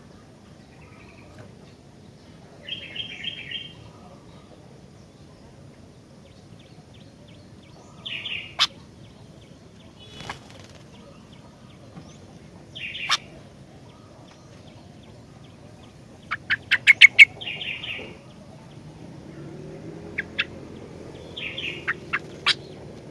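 Sooty-headed bulbul (kutilang) giving short chirped phrases every few seconds, with sharp clicks in between; the loudest is a quick run of about six clicks just past the middle.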